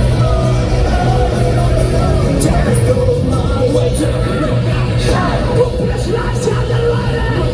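Live rock band playing loudly through a concert PA, with drums, guitars and lead vocals sung and shouted over the music, as heard from the crowd.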